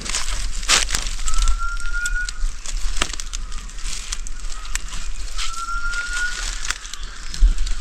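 A bird calling: one short rising whistle, repeated about every four seconds, over scattered crackling and clicking.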